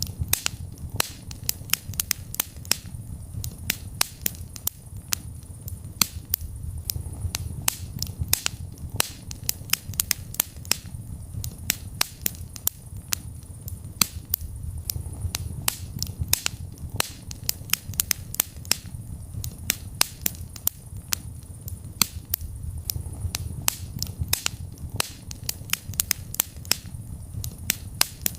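Wood fire burning in a fireplace: many sharp pops and crackles at irregular intervals over a steady low rumble of the flames.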